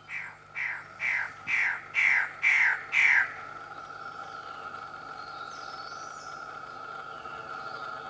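A forest bird calling a series of seven down-slurred notes, about two a second, each louder than the last, stopping after about three seconds. A steady high insect drone runs underneath, with faint high bird notes later on.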